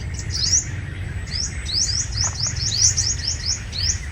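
Sunbirds calling: a quick, uneven series of short, high chirps, each sweeping upward, over a steady low rumble.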